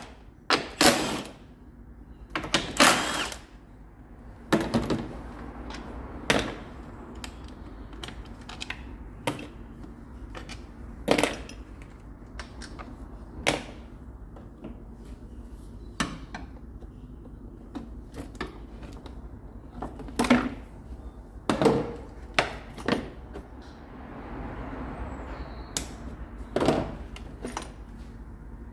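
Irregular knocks and clanks of hand tools and metal parts being handled in workshop work on a car, about a dozen sharp strikes with short pauses between, over a low steady hum.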